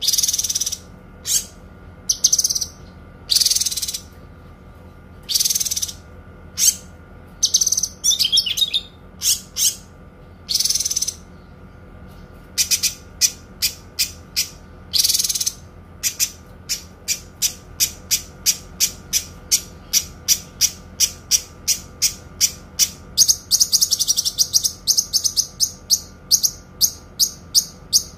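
A kinoi songbird singing clear, high notes. At first they come singly at uneven gaps of about a second, and from about halfway they run into a long, fast string of short notes, about three a second. A faint steady hum lies beneath.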